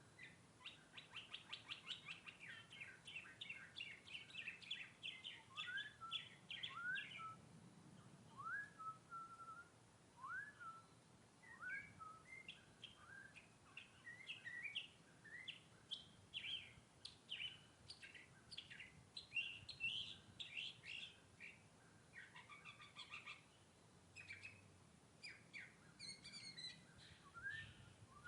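Northern mockingbird singing faintly: a fast trill of repeated notes, then a string of short rising slurred notes about once a second, then a run of varied chirped phrases.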